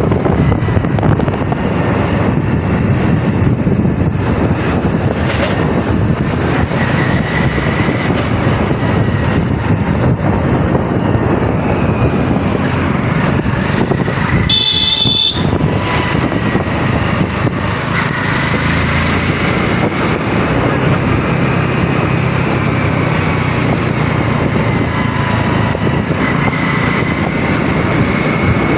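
Steady road and engine noise of a moving vehicle, with a faint wavering whine, and a brief high-pitched tone about halfway through.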